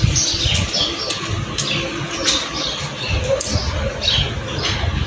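Many birds calling and chirping together in a dense chorus of short, quick calls, with a low uneven rumble underneath.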